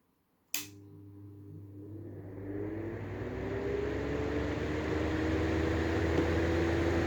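Clipsal Airflow exhaust fan, fitted with a Lenko style 2 cover, starting with a click about half a second in, then spinning up: a rising whir over a steady electrical hum that grows louder and settles into a steady run.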